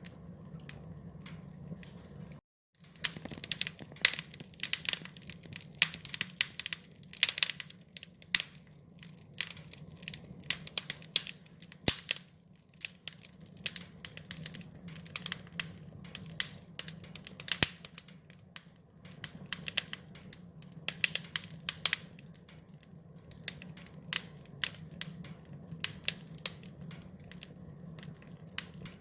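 Wood fire crackling, with irregular sharp pops and snaps over a low steady hum. The sound cuts out for a moment about two and a half seconds in.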